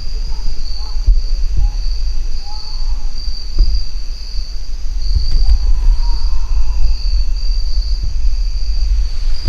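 Faint, distant human yelling comes a few times, over a steady insect drone and a loud low rumble of wind on the microphone.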